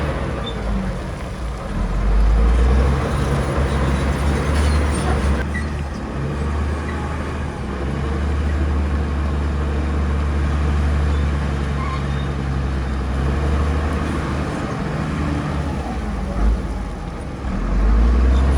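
Heavy diesel earthmoving machinery running with a deep, steady engine hum, which swells about two seconds in and again near the end.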